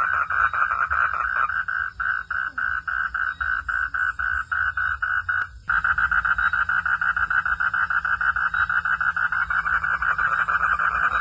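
Frog calling at night in a fast, even pulsed trill, about six pulses a second. It thins out for a few seconds, cuts off for a moment near the middle, then resumes louder.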